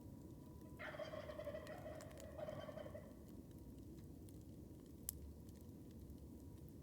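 A turkey gobbling once, faint and distant, about a second in and lasting about two seconds. Under it run the soft crackles of a wood campfire, with one sharp pop about five seconds in.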